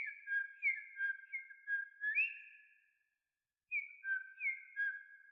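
Recorded bird call: short, clear whistled notes, about three a second, in two runs with a pause of over a second between them, each note starting with a quick upward flick.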